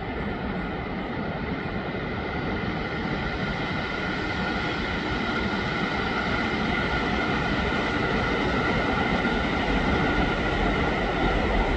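JR West 281 series electric limited express passing at speed: a steady rumble and hiss of wheels on rail with a faint steady whine, growing louder toward the end as a second electric train comes alongside.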